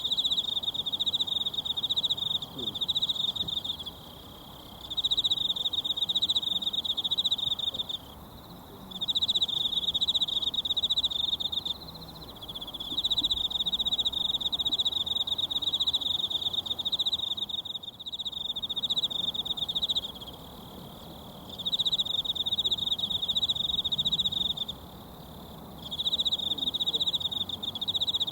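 A high, rapidly pulsed insect song repeated in phrases of a few seconds each, with about a second's pause between them, over a faint steady rush of a mountain stream.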